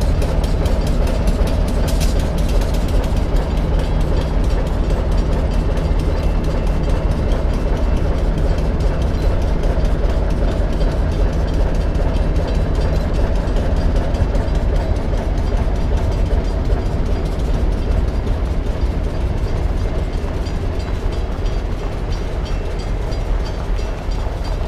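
Passenger train rolling past: a steady loud rumble with a rapid clatter of wheels on the rails, easing off slightly near the end.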